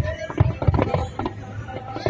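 Fireworks going off in quick, irregular bangs and crackles, with music playing at the same time.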